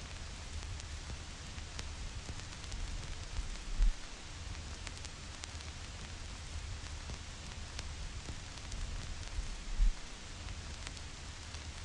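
Vinyl record surface noise: steady hiss with scattered crackles and pops as the stylus tracks dust and imperfections in the groove, over a low rumble. Two brief low thumps stand out, about four seconds in and again near ten seconds.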